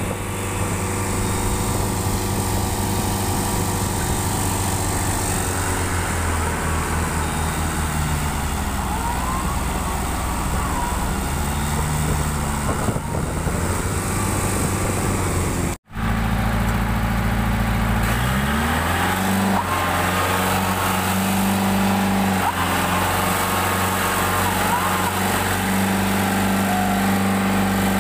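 Tractor diesel engine running steadily. After a brief cut a little over halfway through, it speeds up and holds at a steady higher pitch.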